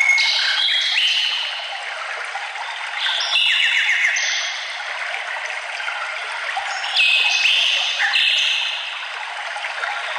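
Birds singing over a running stream: a steady rush of water with short, high whistled bird notes coming and going throughout.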